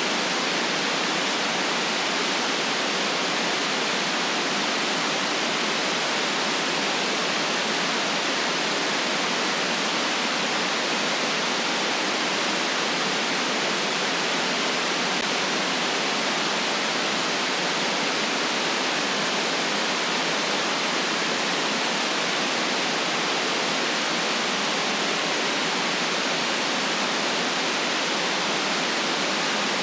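Steady white noise: an even hiss with little bass and no changes in level or tone.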